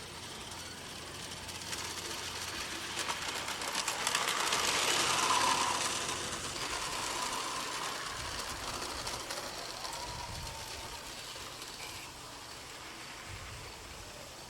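G scale model train running on garden railway track: an electric motor whirring with fine rapid clicking from the wheels on the rails. It grows louder to a peak about five seconds in as the train passes, then fades away.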